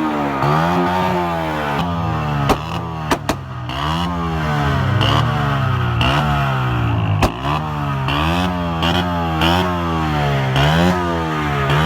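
A vehicle engine being revved up and down over and over, its pitch rising and falling in quick repeated blips, with a few sharp cracks at about two and a half, three and seven seconds in.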